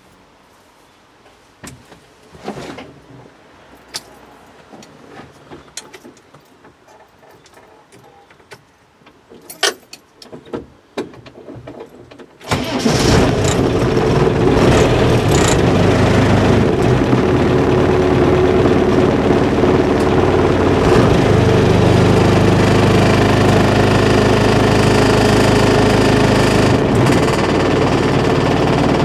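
A few light clicks, then about halfway through the Land Rover Series II's engine starts suddenly and settles into a steady idle.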